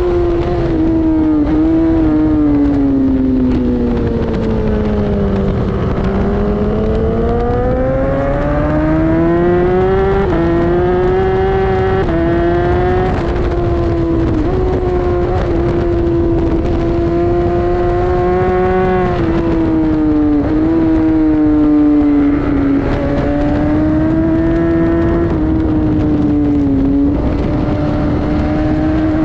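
Inline-four sport bike engine at track pace, heard onboard. Its pitch falls for the first several seconds as it slows, then rises and settles through a series of gear changes, with steady wind rush over it.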